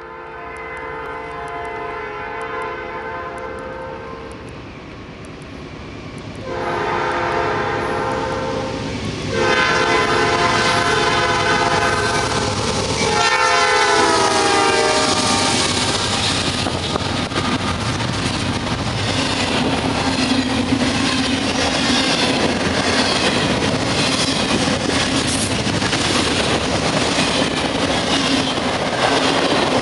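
Norfolk Southern freight train approaching and passing: the locomotive's horn sounds four blasts, the last one dropping in pitch as it goes by, then the rumble of the train with a steady clickety-clack of wheels over rail joints.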